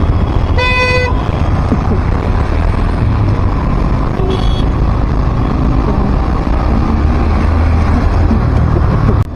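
Steady rumble of road traffic and wind while riding through city streets. A vehicle horn honks once, briefly, about half a second in, and a fainter short beep follows about four seconds in.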